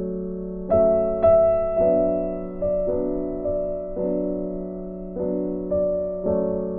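Background music: slow, gentle electric piano playing sustained chords with new notes struck about once a second.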